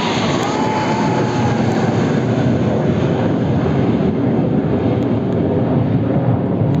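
Military jet aircraft flying past overhead: a loud, steady engine noise that holds throughout.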